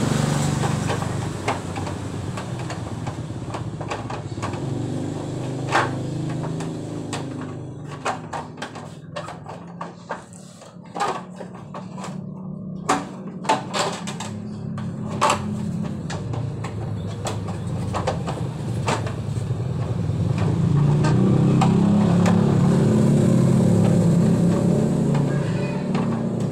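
An engine running with a steady low rumble that grows louder about twenty seconds in, with scattered sharp clicks and knocks throughout.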